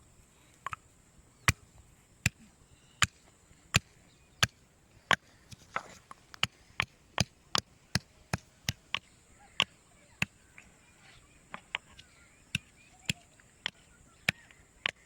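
Garlic being pounded with a pestle in a mortar: a run of sharp knocks, about one every three-quarters of a second at first, quickening to two or three a second from about six seconds in.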